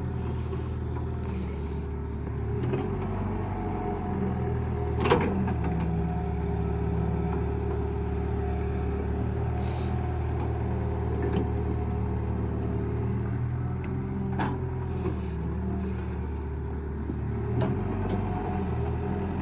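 Tractor diesel engine running steadily, its pitch shifting a little now and then as the load changes. There is one sharp knock about five seconds in.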